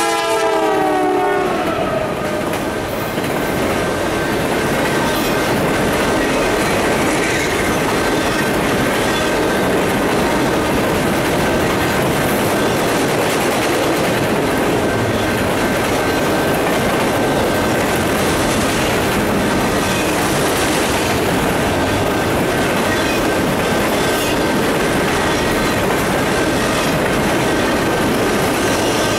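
Norfolk Southern freight train passing close by on a steel bridge: the horn of the lead GE Dash 9-40CW locomotive drops in pitch as it goes past and stops about a second and a half in. Then the diesel locomotives and a long string of autorack cars roll by with steady wheel clatter and rumble, a thin high tone running over it.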